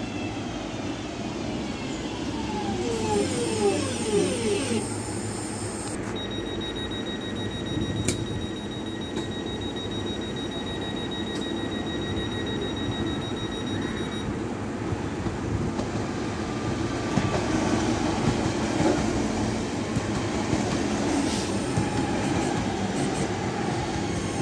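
Class 323 electric multiple unit braking into the platform, its traction motors whining with pitch glides in the first few seconds, then a thin steady high electrical whine while it stands. From about two-thirds of the way in, the louder running noise of another electric train on the adjacent track.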